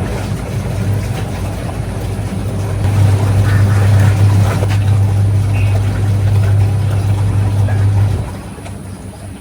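A motor running with a steady low hum that grows louder about three seconds in and drops away about a second before the end.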